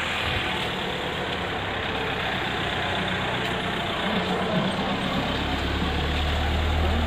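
A vehicle engine idling close by, a low steady hum that grows stronger about five seconds in, over a steady wash of background noise.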